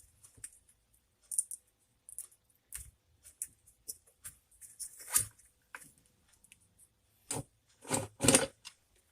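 A screwdriver taking the screws out of a ceiling fan's metal housing: scattered small clicks, scrapes and metal rattles, with a few louder knocks near the end.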